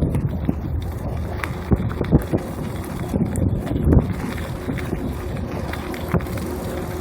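Wind buffeting the microphone on a moving bicycle, a heavy low rumble, with scattered knocks and rattles from the bike over the road surface.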